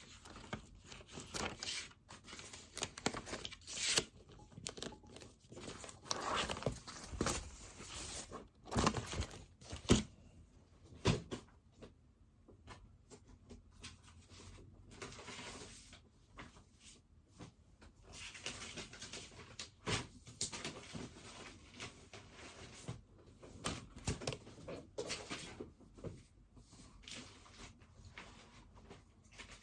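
Pen writing on paper in irregular scratchy strokes, with occasional paper rustles and light taps on the desk.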